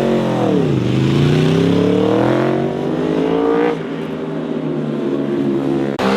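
Motorcycle engine revving: its pitch drops in the first second, then climbs steadily as the bike accelerates. Near four seconds it changes abruptly to a steadier, lower engine sound.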